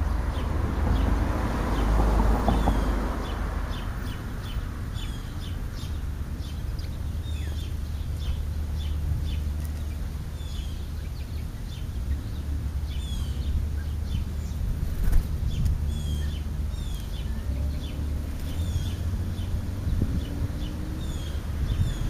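Birds chirping again and again in short, high, falling notes over a steady low rumble, with a brief rush of noise about two seconds in.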